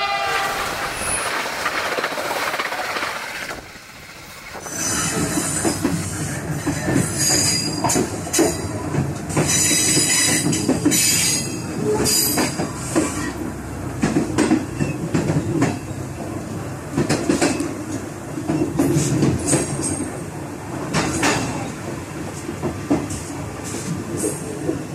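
Train running over jointed track and through points, with a steady low rumble and irregular clacks as the wheels cross rail joints and switches. High-pitched wheel squeal comes in spells during the first half, after a short quieter stretch about four seconds in.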